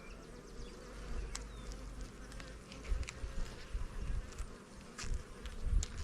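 Honeybees buzzing steadily around an open hive, with a few light clicks scattered through.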